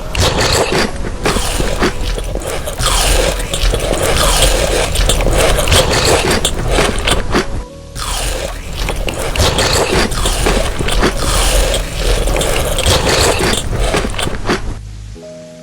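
Loud, close-up crinkling and crunching from chocolate being handled and eaten, in two long stretches broken by a short pause about eight seconds in, over faint background music.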